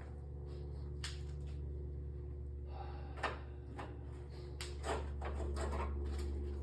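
A few knocks and clatters, sharpest about three seconds in and again near five seconds, over a steady low hum.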